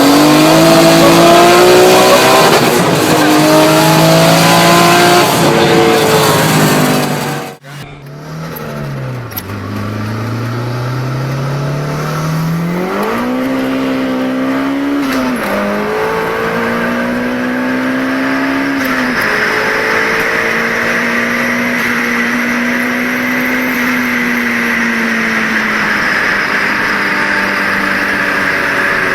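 Turbocharged Nissan Silvia engines under hard acceleration in two clips. The first revs up and down repeatedly. It cuts off about seven and a half seconds in. The second climbs from low revs, drops in pitch at a gear change and then holds a steadier note with a hiss above it.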